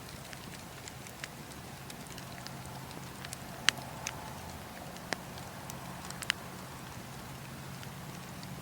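Firewood burning in a campfire: a steady low rush with scattered sharp crackles and pops, about six in all, the loudest a little over three and a half seconds in.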